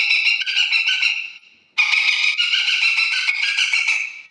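A man imitating a dolphin with his voice: a high-pitched, rapidly fluttering squeal in two long calls, with a short break about one and a half seconds in.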